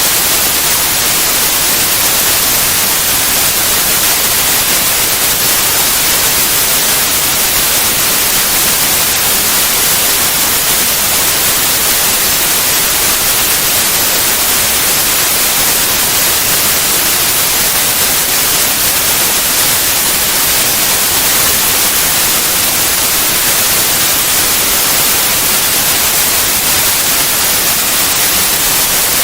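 Steady white noise: an even, unchanging hiss across all pitches, strongest in the highs, with no events or variation.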